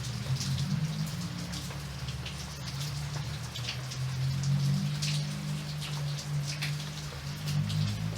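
Rain falling steadily, with many separate drops pattering on a surface, over a low steady rumble.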